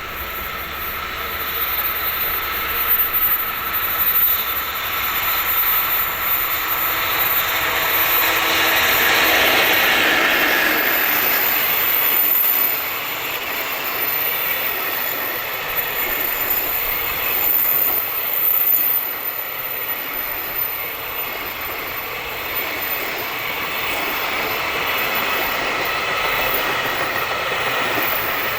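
Freight train hauled by an EF65 electric locomotive rolling past: a steady rattle of steel wheels on the rails with a high-pitched ringing over it. It is loudest about ten seconds in.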